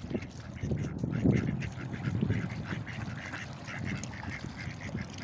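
Ducks quacking in many short, repeated calls.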